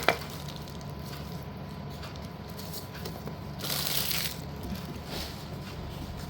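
Pieces of slate being handled while a parcel is unpacked: a sharp clack right at the start, then a brief rustle about four seconds in.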